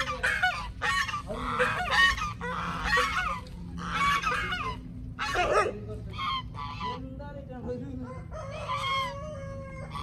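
Birds honking in a quick run of short, loud calls, one or two a second, easing off briefly about seven seconds in.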